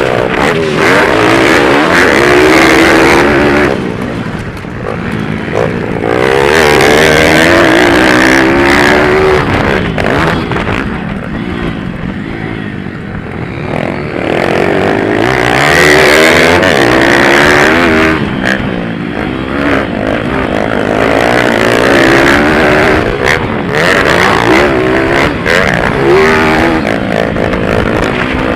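Several pit bike engines racing together, each revving up and down in pitch as the bikes accelerate and back off. The sound eases twice, about four to six seconds in and again around twelve seconds in, before building again.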